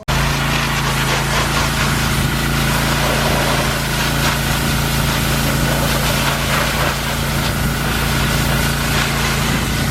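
Pressure washer running steadily with a constant hum and hiss, coming in abruptly at the start.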